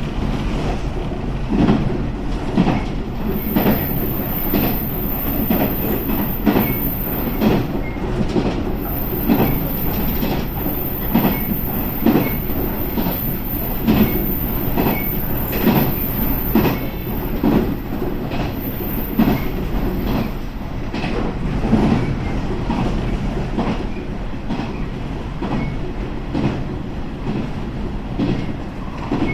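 Local train running along the line: a steady rumble with repeated clacks of the wheels over rail joints. A thin, high wheel squeal runs through the middle of the stretch, from about three seconds in, and stops shortly past the twenty-second mark.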